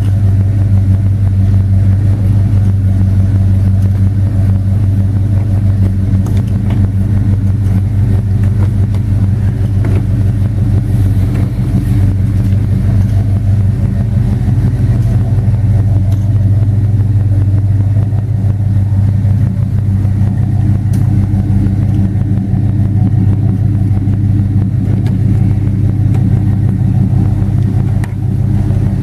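1971 Oldsmobile Cutlass's 455 cubic-inch V8 running steadily at an even speed, a deep low hum with no revs.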